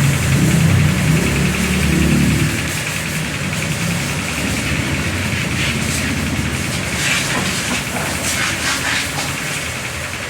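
A motor runs steadily in the background. About six seconds in, a stiff brush starts scrubbing soapy car upholstery and carpet, in a few quick strokes.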